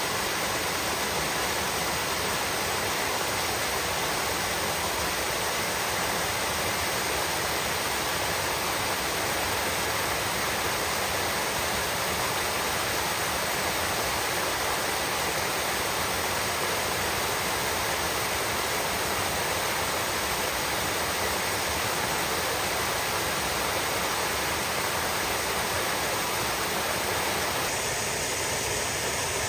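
Stream water flowing and rushing steadily, an even wash of noise, its tone shifting slightly near the end.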